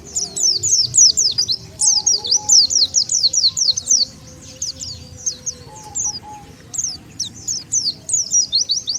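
White-eye (pleci) song used as a lure call: a rapid run of high, thin, downslurred chirps, several a second, with short breaks about halfway through and again near the end.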